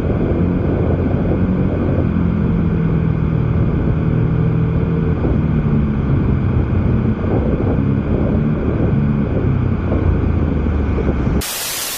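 Harley-Davidson Pan America's V-twin engine running steadily as the motorcycle is ridden down the street. A short burst of hiss comes near the end.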